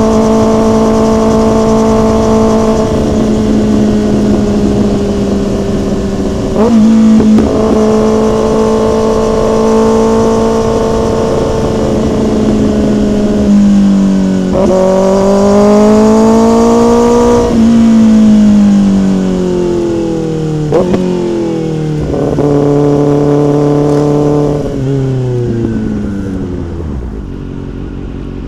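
Motorcycle engine and exhaust under way, its pitch holding, rising and falling with the throttle and dropping sharply at each gear change. Near the end the revs fall in steps as it slows and settles to a quieter low running.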